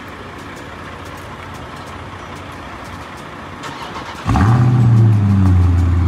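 Dodge Charger Scat Pack's 392 (6.4-litre) Hemi V8 remote-started: after a few seconds of quiet it cranks briefly and fires about four seconds in. The revs flare on catching, then drop to a loud, steady idle at the exhaust.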